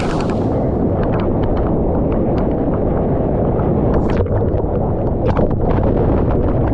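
Strong wind buffeting an action camera's microphone in rough surf, a steady heavy rumble, with water splashing and sloshing around the camera as short, sharp ticks scattered throughout.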